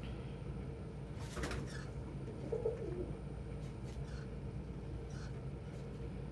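Domestic pigeon giving a short, falling coo, with a brief rustle about a second before it, over a steady low hum.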